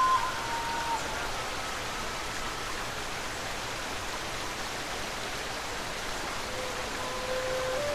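River water rushing steadily through a tunnel. A held note on a Turkish ney ends about a second in, and a soft low ney note begins near the end, stepping up slightly in pitch.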